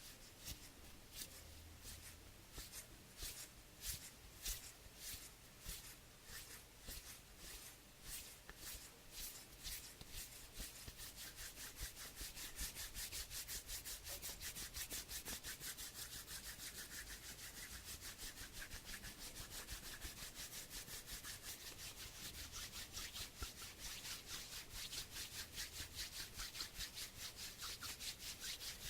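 Hands rubbing together, at first in slow separate strokes, then about ten seconds in quickening into fast, continuous back-and-forth rubbing.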